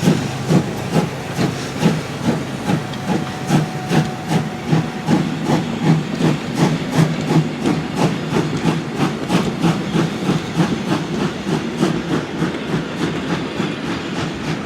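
Steam locomotive SJ 1916 under way, its exhaust chuffing about two to three times a second over a hiss of steam, the beats quickening a little. Near the end the chuffs grow fainter under the rattle of the train on the rails.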